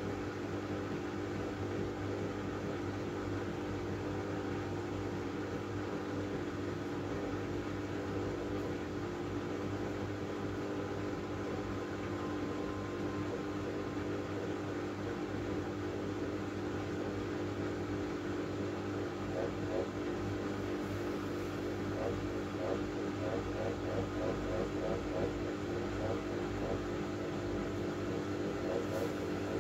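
Miele W433S front-loading washing machine running mid-cycle with a steady motor hum and whine. From about twenty seconds in a faint rapid rhythmic rattle joins it.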